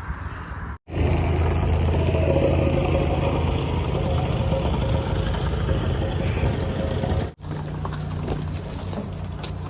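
A car's engine and road noise on the move, a steady low hum under tyre rush. It is broken off abruptly twice, about a second in and again near the end, and the hum sits at a different pitch after each break.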